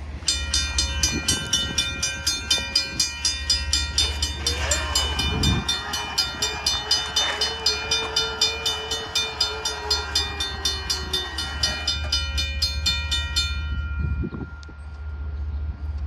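Bell clanging in quick, even strokes, about two or three a second, as a Union Pacific freight train approaches, then stopping abruptly near the end. In the middle a long drawn-out tone sounds for several seconds, most likely the locomotive's horn.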